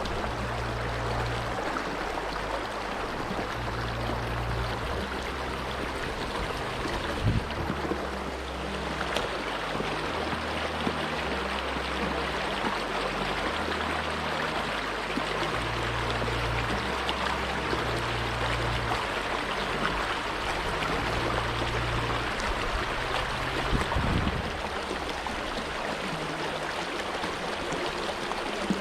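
Shallow river water rushing steadily over rapids, with a low rumble underneath and a couple of short dull knocks.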